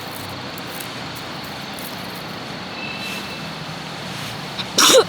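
A steady rushing background noise, broken near the end by one short, loud, harsh call that falls in pitch.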